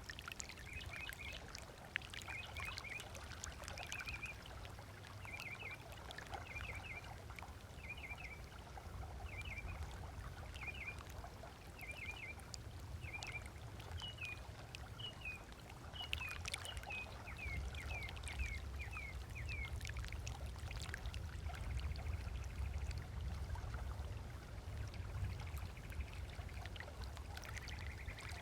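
Small waves lapping and trickling on a sandy lake shore. A bird repeats a short high chirping call in little groups about once a second, stopping about twenty seconds in.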